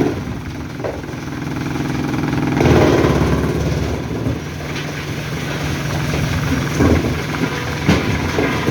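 A truck engine idling steadily, growing louder for a moment about three seconds in, with a sharp knock near the end.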